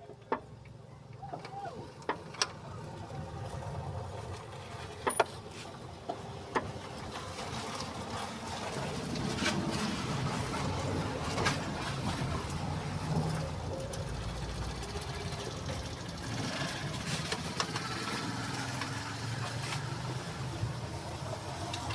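Sharp metal clinks and knocks of a car part and tools being handled as the part is fitted by hand, about a dozen in the first seven seconds. From about eight seconds in, a steady low rumble rises and holds under fainter clinks.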